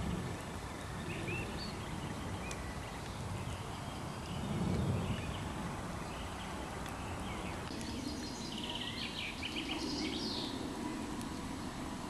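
Wild birds chirping and singing over a steady outdoor background hiss, with a quick run of rapid high notes about eight seconds in. A low rumble swells briefly around four to five seconds in.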